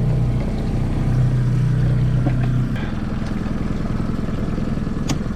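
Outboard kicker motor running steadily at trolling speed; its low hum changes about halfway through. A single sharp click sounds near the end.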